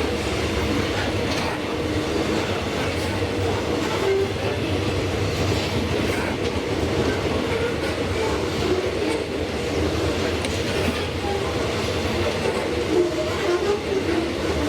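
Freight train wagons rolling past on the rails: a steady rumble of wheels on track, with faint scattered clicks.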